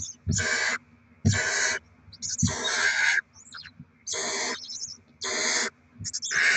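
Barn owl chicks giving rasping, hissing begging calls, about one every second.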